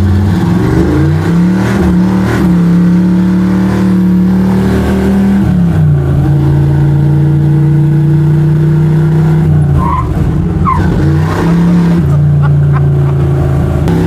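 American muscle car engine revved up and held at high revs at a steady pitch, easing down to a lower steady speed about six seconds in, then revving up again near the eleventh second.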